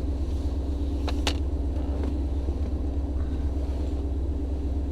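2017 Mustang GT's 5.0 V8 running steadily with a low, even drone. Two sharp clicks come a little over a second in.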